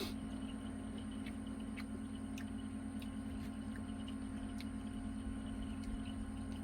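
A steady low hum, with faint scattered clicks over it.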